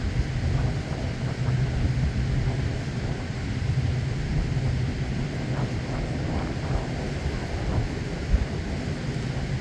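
Wind buffeting the microphone over a steady low engine hum.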